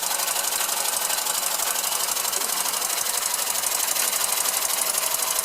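Small hand-built oscillating engine running on compressed air at a fast, even beat, its exhaust puffs mixed with the light clatter of the line shaft and the toy models it drives.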